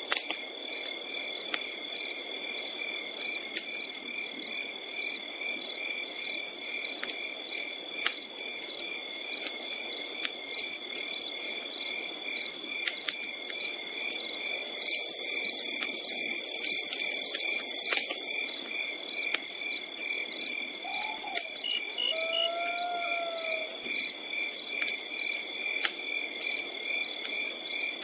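Crickets chirping in a steady pulsing chorus, over the scattered sharp crackles of a campfire. In the middle comes a few seconds of high hiss, and near the end a brief gliding call.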